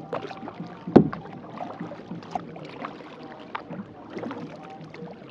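Kayak paddle strokes dipping and splashing in lake water, with irregular small knocks and drips, and one sharp knock about a second in.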